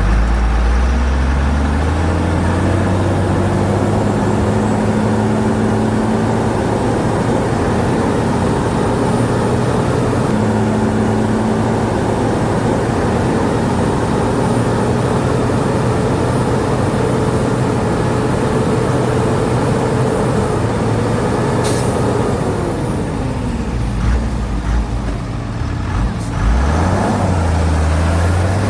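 Heavy diesel earthmoving engine revving up and holding high revs under load for about twenty seconds, then dropping back toward idle, with a single sharp click shortly before the drop.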